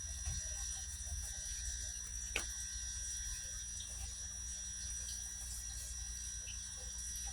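Steady low background hum with a thin high steady whine, faint scattered ticks and one sharp click a little over two seconds in.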